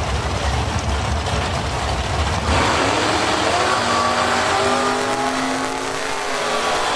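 Drag racing car engine rumbling low, then launching about two and a half seconds in and accelerating hard down the strip, its pitch climbing.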